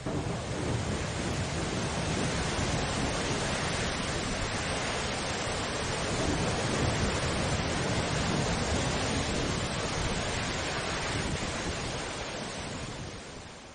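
Storm ambience: a steady rushing noise of wind and rain, with no thunderclaps, fading out near the end.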